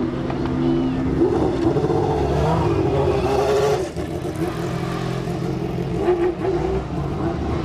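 Car engines running and revving, with a brief dip in level about four seconds in.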